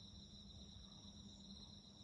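Faint, steady high-pitched chirring of crickets, a continuous fine trill.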